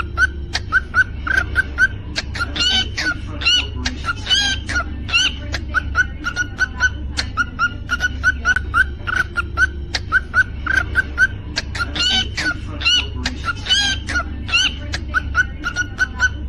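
Cockatiel whistling and chirping: runs of short, quick repeated notes at about four a second, broken twice by longer swooping chirps, with the phrase repeating about every eight seconds over a steady low hum.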